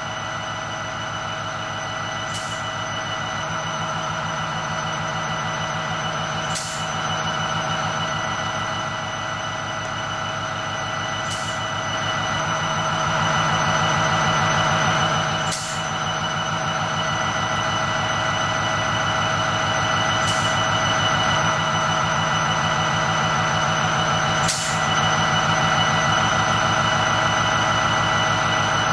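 A train rolling past with a steady rumble and ringing rail noise that slowly grows louder, broken by a short click about every four to five seconds.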